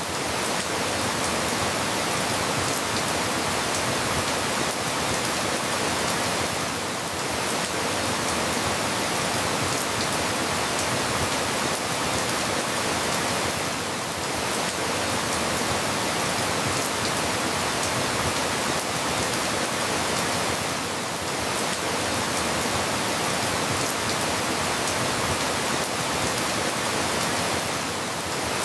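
Steady rain falling: an even hiss of many drops with no separate sounds standing out, dipping slightly about every seven seconds.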